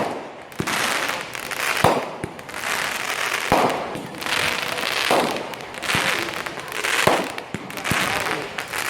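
Fireworks show: shells bursting in quick succession, a sharp bang about every second, each followed by a crackling hiss.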